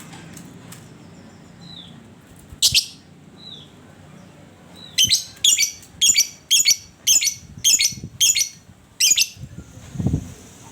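Lovebird calling: a few short chirps and one loud shrill call, then a run of about nine harsh, shrill calls at about two a second. A short low thump follows near the end.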